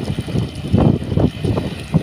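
Tractor engine running as it works the field, an uneven low rumble with wind buffeting the microphone.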